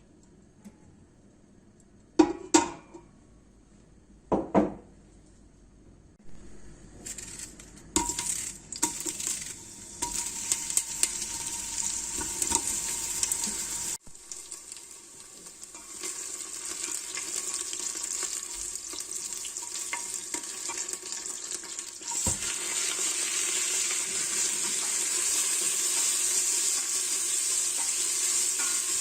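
Two sharp kitchen knocks, then food sizzling and crackling in a hot frying pan, the sizzle growing louder in the last few seconds.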